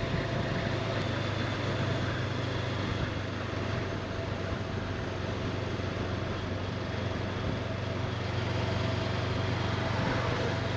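Honda CB500X's parallel-twin engine running at a steady cruise, with wind and road noise, the pitch and level holding even.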